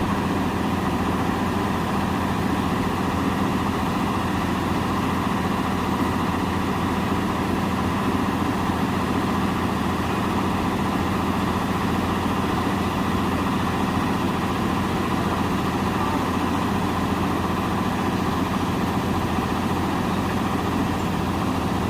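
Heavy truck's diesel engine running at a steady, unchanging speed.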